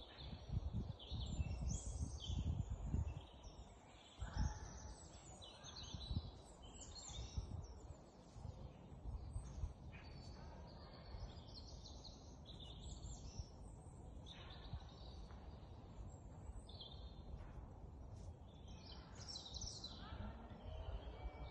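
Small songbirds chirping and singing, many short calls and trills overlapping, over a low rumbling background noise that is gustier in the first few seconds.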